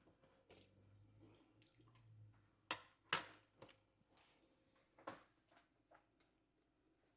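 Quiet kitchen handling sounds: a few sharp clicks and knocks, the loudest a pair about three seconds in and another about five seconds in, over a faint low hum in the first two seconds.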